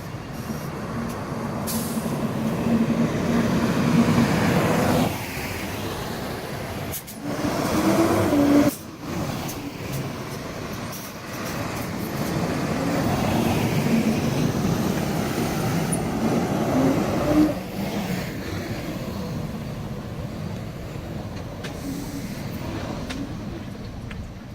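Heavy trucks with their engines running and moving, the sound changing abruptly several times from one stretch to the next.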